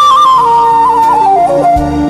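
Daegeum, the Korean bamboo transverse flute, playing a trot song melody that steps down over a few notes and settles on a held tone near the end, over a backing accompaniment.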